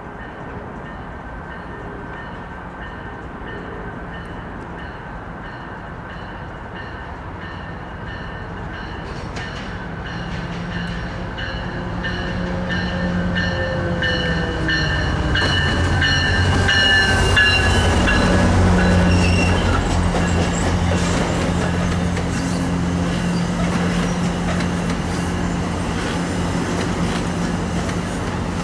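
MARC commuter train approaching and passing the platform: a steady high whine and a rising rumble, loudest about two-thirds of the way in as the front of the train goes by, with the pitch dropping as it passes. Then a run of clicks from the wheels as the bilevel coaches roll past.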